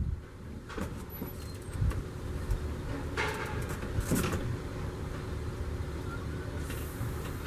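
A motor vehicle running with a steady low rumble, with two short hissing noises about three and four seconds in.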